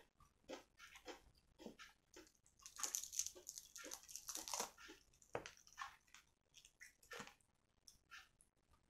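Close-up chewing and crunching of crispy KFC fried chicken: a string of short, sharp crunches, with a longer crackly stretch about three to five seconds in.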